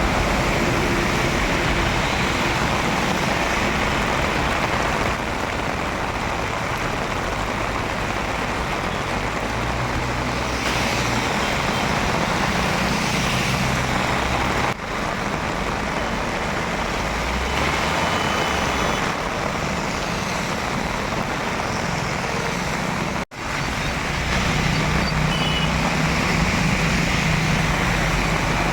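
Heavy rain with road traffic: vehicle engines and tyres running through wet, flooded streets in a steady dense wash of noise. It drops out abruptly for a moment twice, about fifteen and twenty-three seconds in.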